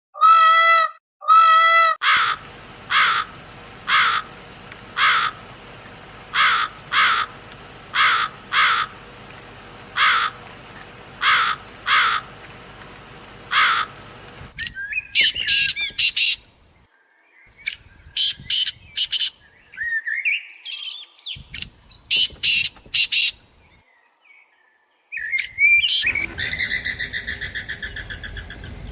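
A series of bird calls. Short calls repeat about once a second for some twelve seconds, then give way to bursts of high chirping. A rapid run of pulsed calls comes near the end.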